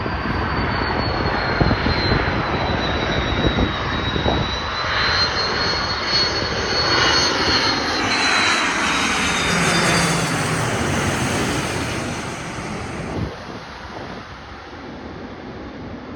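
Twin-engine Airbus A330-200 jetliner on landing approach passing low overhead: a jet rumble with a high fan whine that slides slowly down in pitch, loudest around the middle, then fading away after about thirteen seconds.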